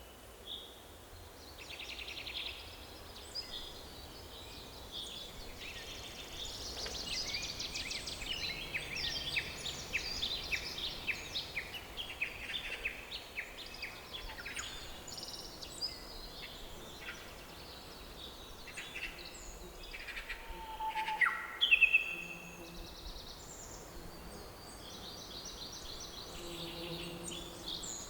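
Several songbirds singing and chirping in a forest, many short calls and trills overlapping, over a faint steady background noise. One louder call with a quick falling sweep stands out a little past three-quarters of the way through.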